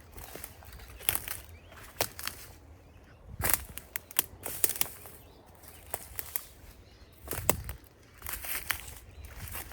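Footsteps on a bush path, crunching and rustling at an uneven walking pace, about one step a second.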